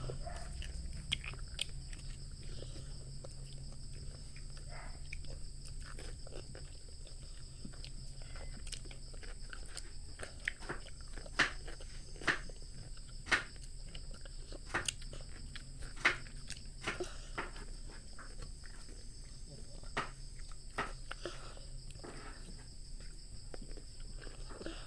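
A child chewing raw cucumber slices, a run of short crisp crunches and wet mouth clicks, loudest about halfway through.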